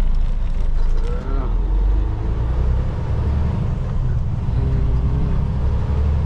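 Semi-truck engine and road noise heard from inside the cab, a steady low drone.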